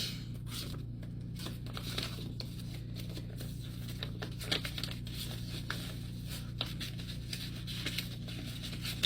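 Paper rustling and crinkling in short, scattered bursts as paper bills and a paper envelope are handled, over a steady low hum.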